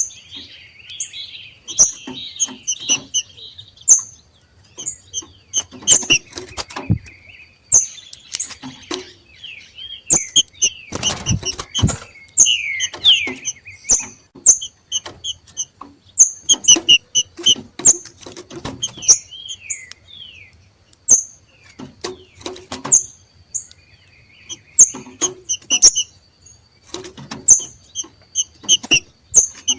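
Green-winged saltators (trinca-ferro) giving their 'macheado': bursts of short, sharp, high chirps mixed with short whistled slurs. This is the call birds give when coming into breeding condition. Scattered thumps or knocks are mixed in, with a strong cluster about a third of the way through.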